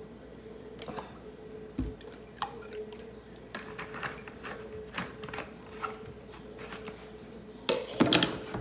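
Cooking oil being poured and dripping into a bowl, with small scattered clicks and taps, then a louder clatter of kitchen utensils near the end.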